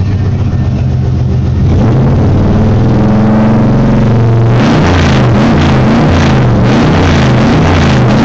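1995 Chevy Silverado 1500's 355 small-block V8 running through Flowmaster Super 10 mufflers, with the catalytic converters still fitted. It idles, revs up steadily about two seconds in, then is blipped repeatedly through the second half.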